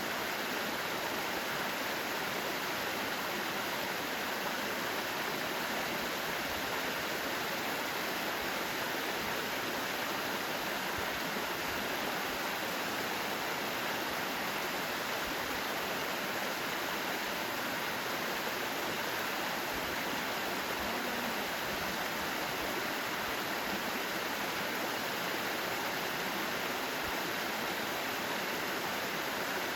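Mountain stream water rushing over rocks, a steady, unchanging noise.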